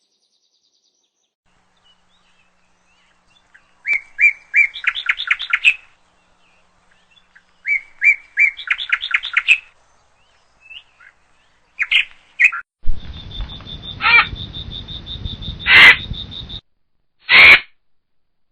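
A bird calling: two runs of rapid high chirps that speed up, then several separate loud calls, some over a steady high-pitched tone and a low background hum.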